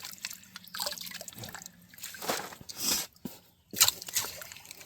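Water dripping and splashing in a shallow creek as it is worked by hand, in uneven splashes, with a sharp knock about four seconds in.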